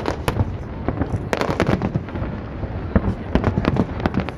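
Aerial fireworks bursting: an irregular string of sharp bangs and crackles, thickest about a second in and again near the end, over a continuous low rumble.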